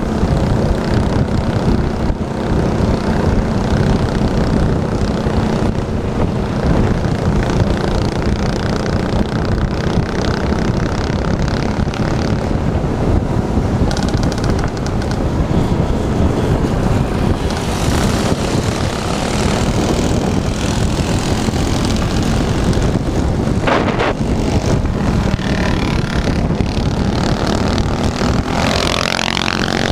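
Small minibike engine running steadily, with a rising rev near the end.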